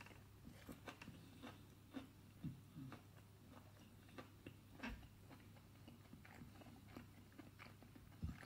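Faint chewing of a breaded chicken doughnut bite: scattered soft crunches and mouth clicks, a few a little louder than the rest, over a steady low hum.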